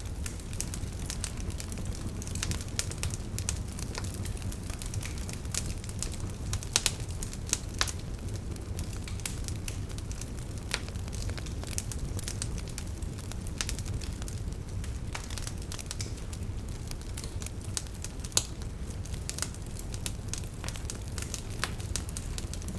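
Fireplace fire crackling: irregular sharp pops and snaps over a steady low rumble of the burning fire.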